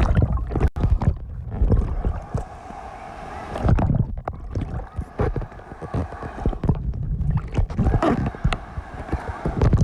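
Water sloshing and splashing close to the microphone, with repeated heavy bumps and rushing noise as the camera moves through the water.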